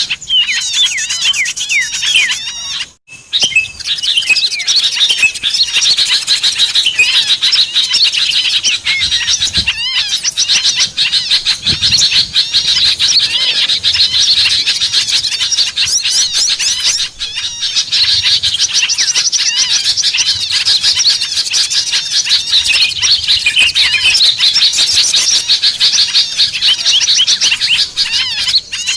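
A dense chorus of many small birds chirping and calling over one another, a continuous jumble of fast high notes and rapid up-and-down trills. It is a bird-lure (pikat) recording meant to draw wild small birds down. It drops out briefly about three seconds in.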